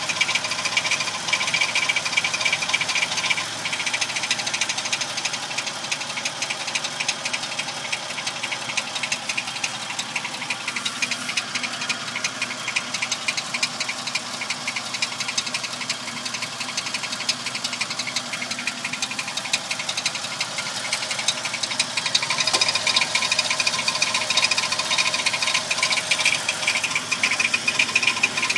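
Toyota Tacoma running with a fast, steady rattle over the engine noise, a noise of unknown origin the owner is trying to locate. The rattle gets louder a little past three-quarters of the way through.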